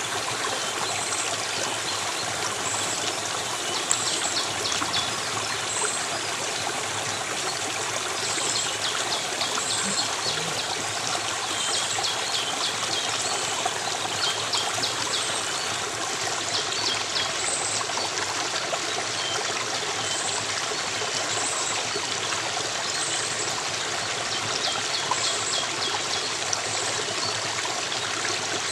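A stream of running water flowing steadily, with birds calling over it: a short high note about once a second and bursts of rapid chirping every few seconds.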